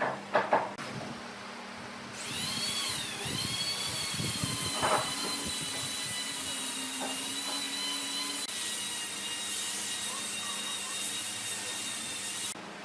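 A few knocks, then a small high-speed power tool starts about two seconds in with a high whine, runs steadily, and stops suddenly near the end.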